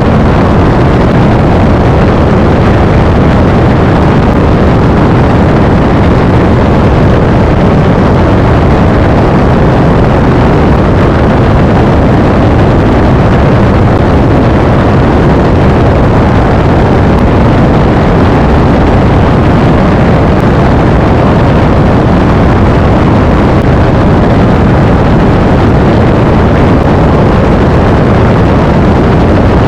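Cirrus SR20's single piston engine and propeller heard from inside the cabin, a loud steady drone that does not change.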